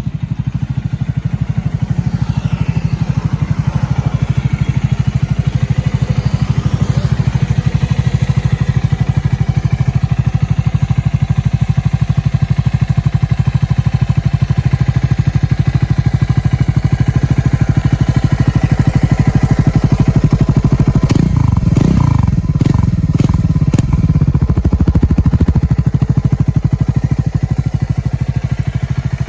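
Triumph Scrambler 400X's single-cylinder engine running steadily through its exhaust, with a few throttle blips near the three-quarter mark where the pitch rises and falls.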